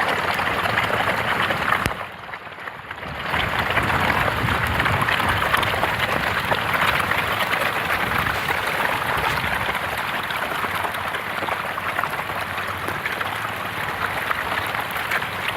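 A steady rushing noise, like running water or a boat under way, that drops away briefly about two seconds in and then resumes.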